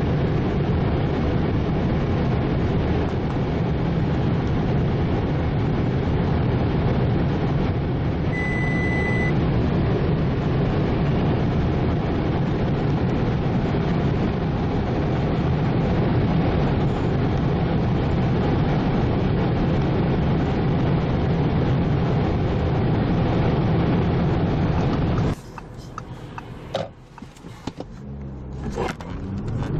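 Audi A6 3.0 TDI V6 diesel running hard at speed, a steady loud drone of engine, wind and road noise, with a short electronic chime about eight seconds in. Near the end the noise cuts off suddenly to a quieter stretch with a few clicks and knocks, then the engine sound comes back.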